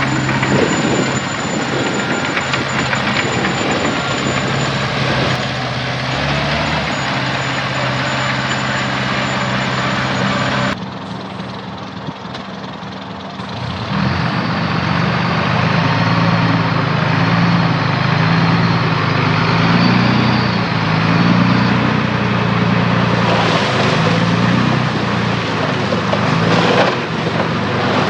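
Heavy diesel engine of earth-moving machinery running steadily. After a sudden break about eleven seconds in, it runs again with its pitch rising and wavering as it works under changing load.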